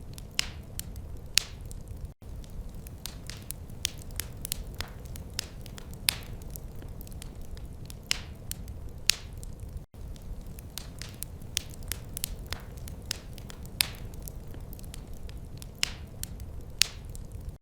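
Wood fire in a fireplace crackling, with irregular sharp pops and snaps over a steady low rumble. The sound cuts out for an instant twice, about two seconds in and near ten seconds.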